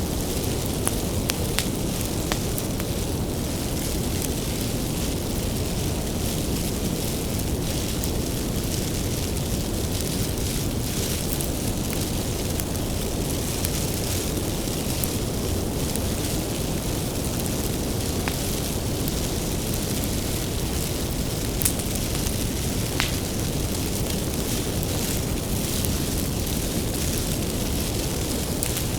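Wood bonfire burning: a steady low rush of flame noise with scattered sharp crackles and pops from the firewood.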